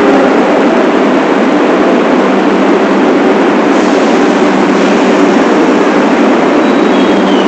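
New York City subway train running along the track, a loud steady rush of wheel-on-rail and car noise, with a faint high whine near the end.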